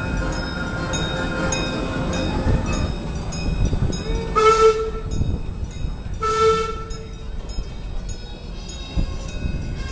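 Train whistle blown twice, two short blasts a second and a half apart, over the low rumble of the train running, as the train sets off from the station.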